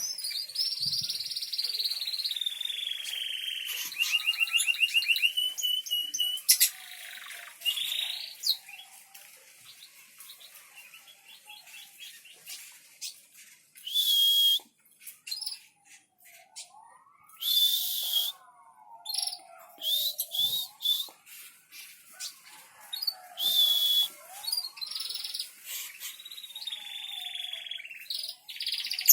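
Small songbirds singing as a masteran tutor song: high trills and falling whistles in the first half, then short loud harsh calls a few seconds apart over lower swooping whistles.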